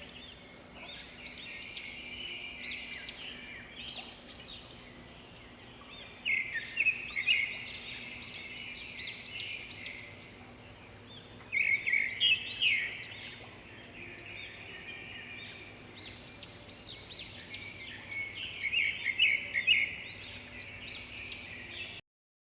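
Several birds chirping and calling together in quick, overlapping runs of short high notes, swelling louder in a few spells. The sound cuts off abruptly near the end.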